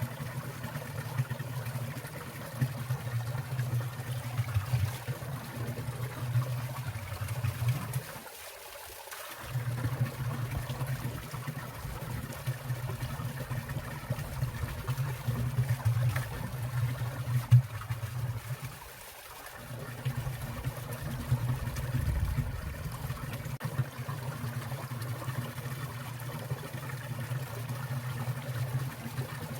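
Water in a winter mountain stream trickling and splashing steadily, with a low rush that drops away twice for about a second.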